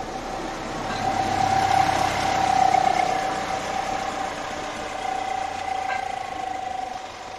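Narrow-gauge train running, with a steady squeal over a rushing, rattling noise that grows loudest about two to three seconds in and eases off near the end.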